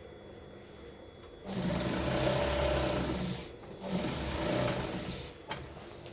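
Electric sewing machine stitching in two runs, about two seconds and then a second and a half, with a brief pause between, followed by a single click.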